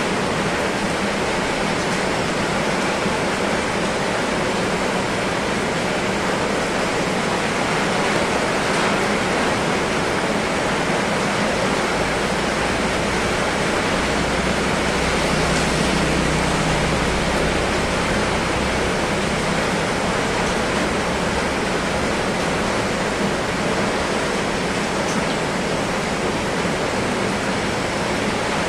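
Heavy rain falling in a steady, even hiss, with a low rumble that swells for a few seconds about halfway through.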